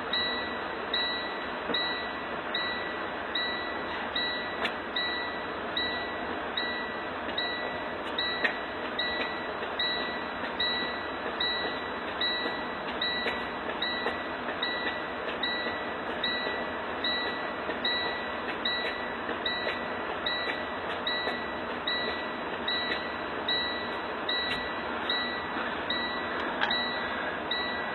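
A repeating electronic chime, one short ding about every three-quarters of a second, over a steady noise.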